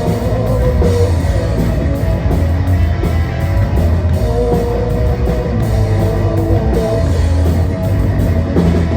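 Live rock band playing an instrumental passage: distorted electric guitar, bass guitar and drum kit, loud and steady.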